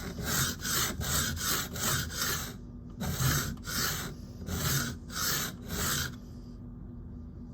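Steel knife tip being ground back and forth on a wet, fast-cutting whetstone, a rhythmic rasping scrape of about three strokes a second, to reshape a damaged tip. The strokes pause briefly, resume at a slower pace, and stop about six seconds in.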